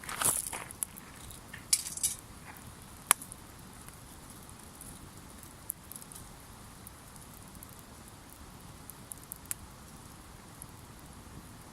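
Campfire burning: a few sharp pops and short crackles in the first three seconds, the loudest about three seconds in. Then a faint steady hiss with occasional small ticks.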